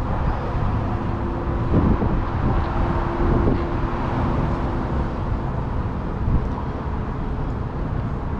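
Steady rumble of wind buffeting the microphone, with road noise, while riding a bicycle.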